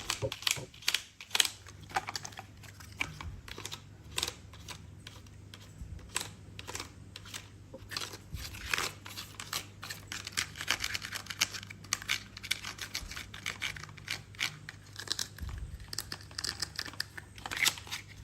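Handling noise: a steady run of irregular light clicks, rattles and crinkles from toys or packaging being handled.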